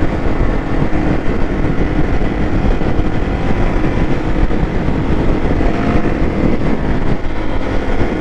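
Motorcycle running steadily at riding speed, with engine and wind noise heard from the rider's own bike.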